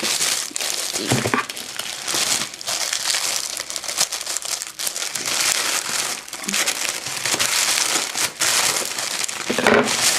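Plastic crinkling and rustling in irregular handfuls as a new clear vinyl beach bag and its packaging are handled and unfolded.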